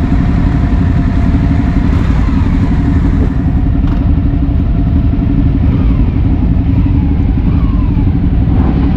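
Motorcycle engine running steadily while riding, under a dense, loud low rumble, with a few short rises and falls in engine pitch.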